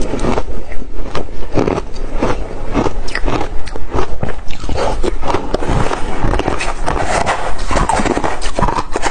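Close-miked crunching of ice being bitten and chewed, a dense run of sharp cracks and crunches in quick succession.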